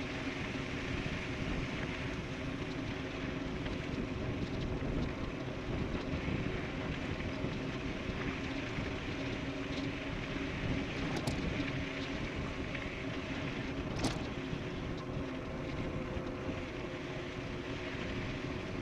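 Electric bike running fast downhill: a steady rush of wind with a constant hum from the rolling bike. Two sharp clicks come about two-thirds of the way through.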